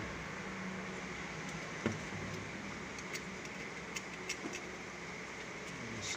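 Small clicks and taps from handling wires and parts at a repair bench over a steady background hiss, the sharpest click about two seconds in.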